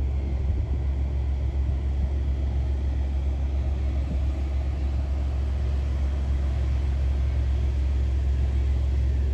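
Steady low rumble of a car ferry under way, its engines droning evenly, with a faint rushing noise above.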